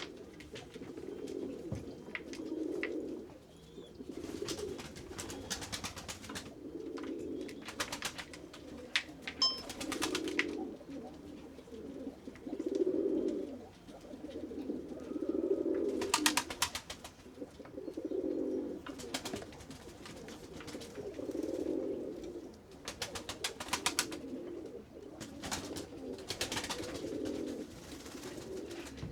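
Pigeons cooing over and over, a low coo every couple of seconds, with several short clusters of rapid sharp clicks scattered through.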